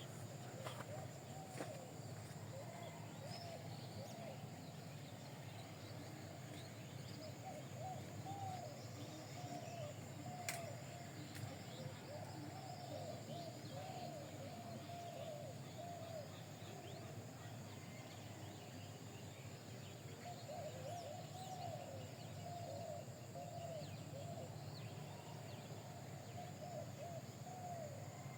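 Birds calling: a run of short, quick chirps overlapping one another in a steady chatter, over a constant low hum.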